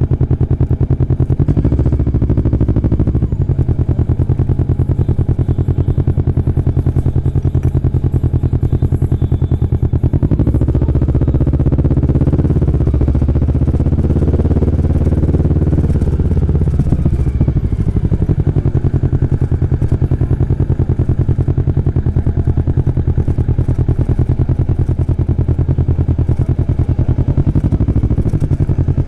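Kawasaki Vulcan S parallel-twin engine running under way, its pitch rising about a third of the way in and falling back just past halfway as the revs climb and drop.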